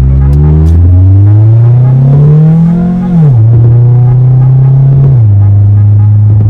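Acura Integra four-cylinder engine through a new catback exhaust, pulling hard under acceleration. Its note climbs for about three seconds, drops sharply at a gear change, holds steady, then falls again about five seconds in.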